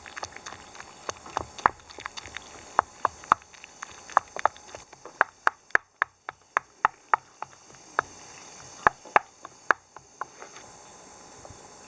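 A run of sharp, irregular clicks and knocks, a few a second, that thins out toward the end, over a steady high drone of insects.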